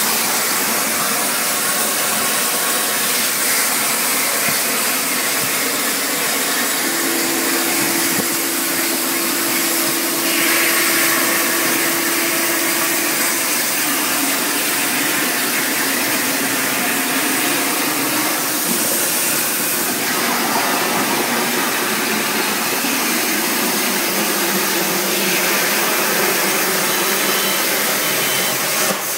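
Plasma cutter arc cutting metal: a loud, steady rushing hiss that changes character a few times, with a steady hum for several seconds in the middle.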